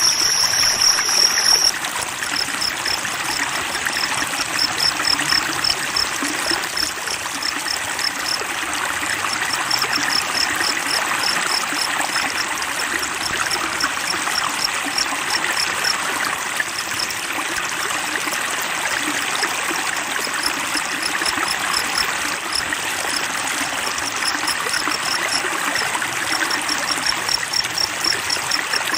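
Flowing stream water running steadily, with a thin high call on one pitch held briefly at the start and then repeated in quick pulses throughout.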